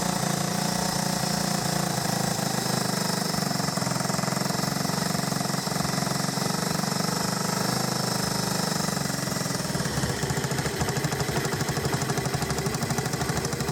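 Honda ATC 125M's small single-cylinder four-stroke engine running at idle on choke with a fast, even putter that grows more uneven about ten seconds in. Freshly started after carb work, it will only run on choke and needs its idle screw adjusted.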